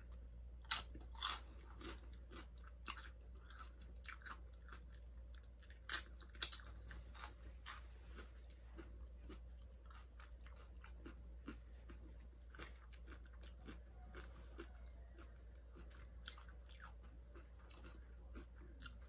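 A person chewing crunchy tortilla-chip nachos close to the microphone. Sharp crunches come about a second in and again around six seconds in, with quieter chewing in between and after.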